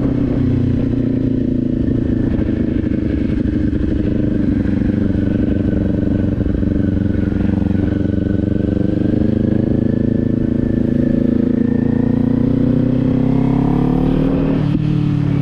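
Kawasaki Z400's parallel-twin engine running at a steady cruise on the road. Near the end the engine note climbs, then drops suddenly.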